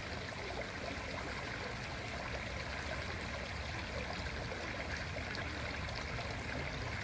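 A large creek flowing: steady sound of running water.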